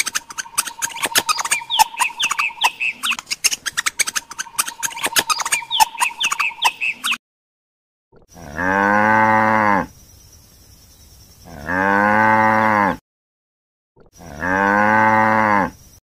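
Cattle mooing: three long moos, each about a second and a half, beginning around the middle. Before them comes a busy stretch of rapid clicking and crunching with short high chirps.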